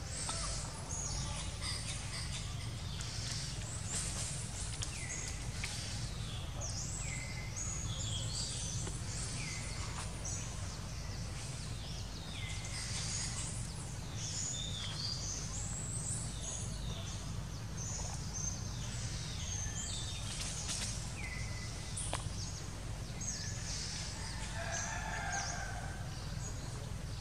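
Forest birds calling over and over: many short, high calls that each sweep downward in pitch, over a steady low background rumble. A lower-pitched call comes in near the end.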